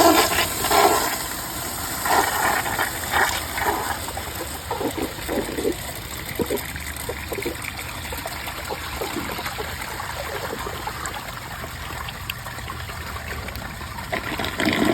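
2018 Mansfield Summit dual-flush toilet flushing with its siphon jet clogged: a loud rush of water for the first few seconds, then quieter, uneven gurgling and trickling as the bowl drains. The bowl siphons only a little, not fully, because the jet is blocked.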